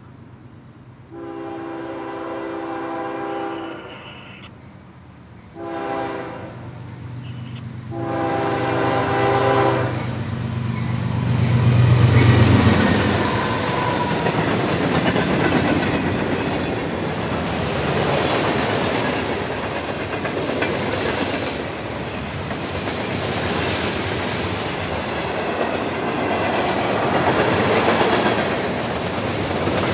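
Freight train horn sounding a long blast, a short blast and another long blast as the train approaches. The lead locomotives, a GE ES44DC and an EMD SD50, pass loudest about twelve seconds in. Freight cars follow, rolling by with steady clickety-clack over the rail joints.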